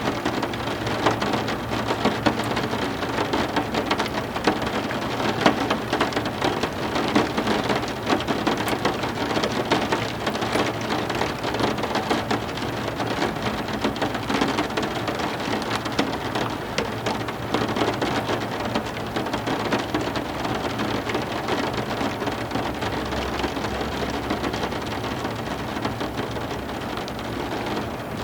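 Heavy rain falling steadily, with many close drops spattering, and a low rumble of thunder beneath it.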